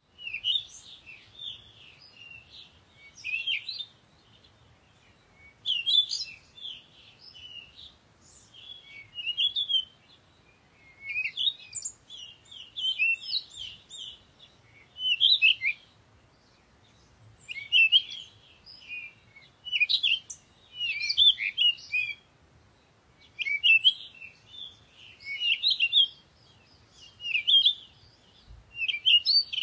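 Birds singing: phrases of quick, high chirps and trills in bursts of a second or two, with short pauses between.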